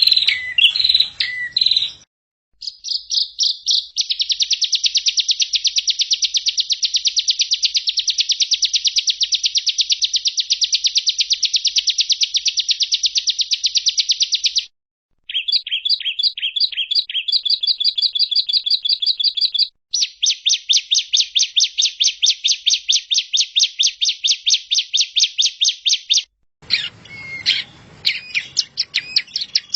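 Songbird song played as a masteran training recording: long, rapid, very even trills, broken by a few short gaps of complete silence, with choppier chirping notes at the start and near the end.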